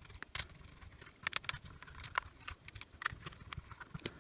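Irregular light clicks and taps of a screwdriver working out the screws of a plastic tool housing.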